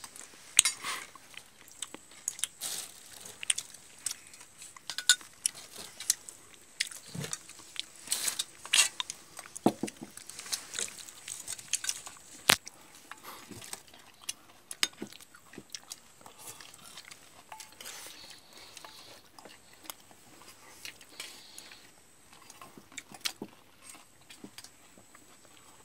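Irregular crunching and clicking at close range, short sharp crackles at an uneven pace, with one sharper click about halfway through.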